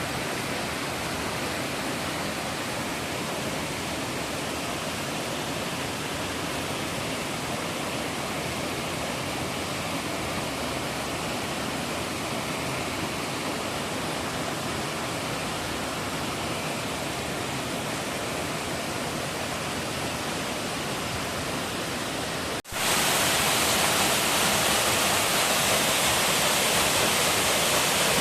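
Rushing water of a mountain stream's waterfalls, a steady even roar. About 23 seconds in it cuts abruptly to a louder, brighter rush of falling water.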